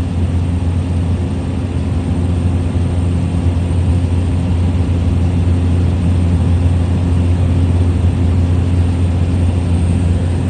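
Small propeller plane's engine and propeller droning steadily in level flight, heard from inside the cabin as a deep, even hum with a rushing noise over it.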